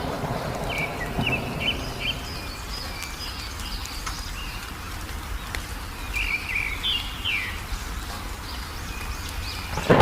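Small birds chirping in two bursts of short calls, one about a second in and another after about six seconds, over a steady low rumbling background.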